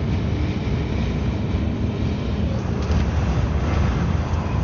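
Steady low rumble inside a moving truck's cab: engine and road noise, with no sudden events.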